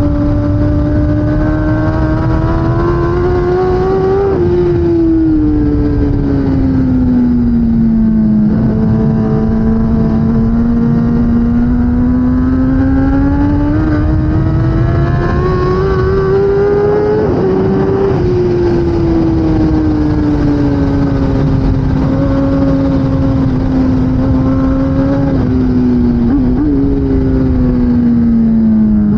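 2016 Kawasaki ZX10R's inline-four engine on track, its note climbing under throttle and then dropping sharply twice as the throttle closes. Between the climbs it falls away through the corners, over a heavy rushing noise throughout.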